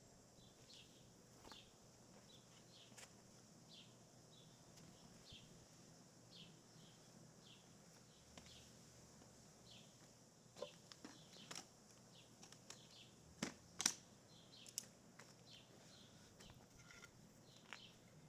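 Quiet outdoor background with a small bird chirping over and over in short high notes. Several sharp clicks or taps come in the second half, the loudest two close together.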